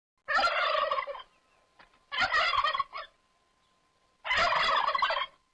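Turkey gobbling: three gobbles of about a second each, a second or so apart.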